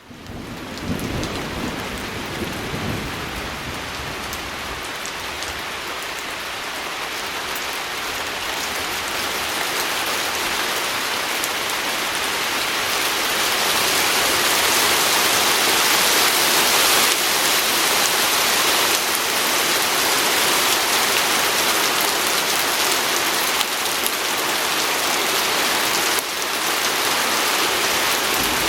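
Rain pattering on a window: a dense, steady hiss that comes up from silence at the start and grows a little louder over the first half. A low rumble sits under it in the first few seconds.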